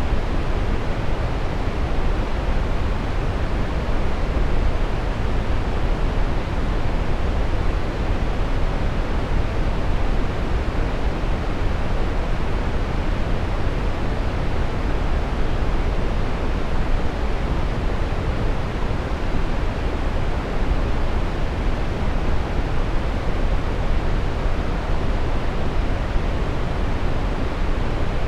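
Steady brown noise: an even, unchanging rush weighted toward the deep end, with no tones or breaks.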